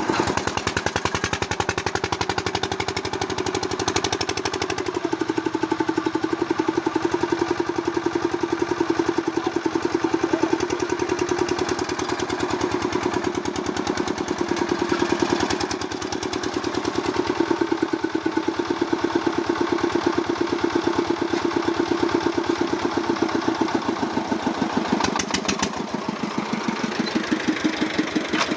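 Tractor engine running at a steady speed with a rapid, even chug.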